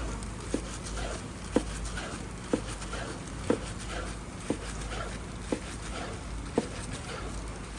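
A knife cutting food on a cutting board: short, dull knocks at a steady pace of about one a second, over a low background hum.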